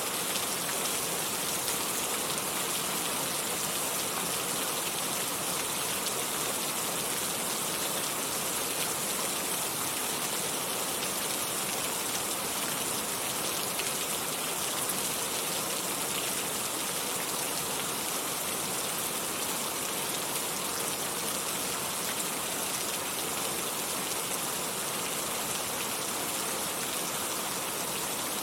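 Steady rain falling, an even hiss of many drops on surfaces, without thunder.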